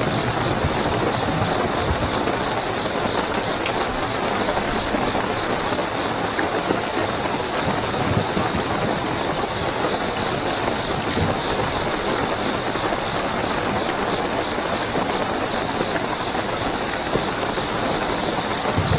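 Steady rain falling, with a continuous high-pitched trill of night crickets.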